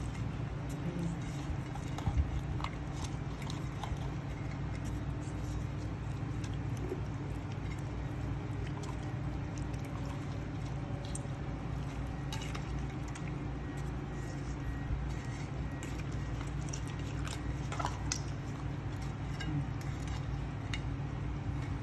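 Scattered faint clicks and soft handling noises of raw chicken being prepared by hand, over a steady low hum.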